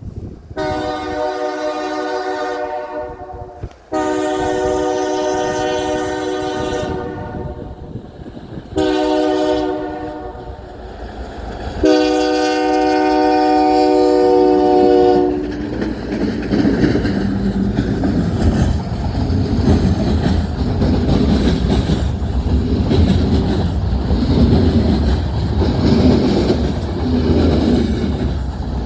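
Locomotive air horn sounding four times, long, long, short, long: the standard signal of a train approaching a level crossing. The horn then stops and the train passes with a steady rumble and clickety-clack of wheels on rail joints.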